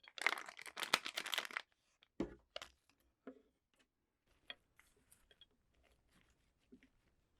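Raw vegetables being bitten and chewed close to the microphone: a dense burst of crunching for about the first second and a half, then softer, scattered chewing and mouth clicks.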